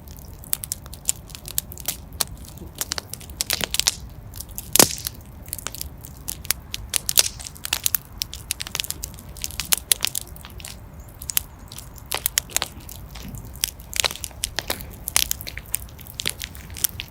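Wood fire in a fireplace crackling: irregular sharp pops and snaps over a low steady rumble, with one louder pop about five seconds in.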